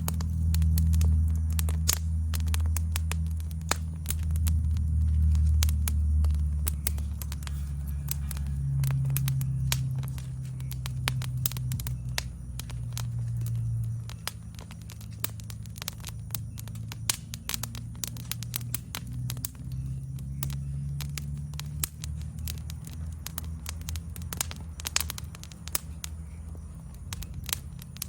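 Wood fire in a fire pit crackling, with many irregular sharp pops over a steady low rumble that is louder in the first half. A faint, steady, high insect trill runs underneath.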